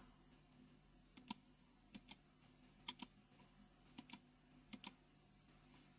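Faint computer clicking: five quick pairs of clicks, about a second apart, from the mouse placing stones or stepping through moves in a Go board program.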